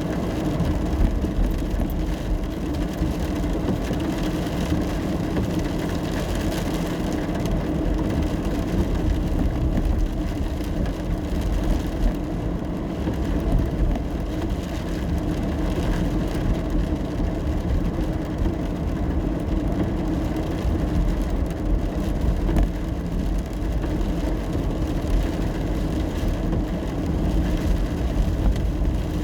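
Steady road and engine rumble heard inside the cabin of a car driving in the rain, with an even hiss of rain and wet road over it.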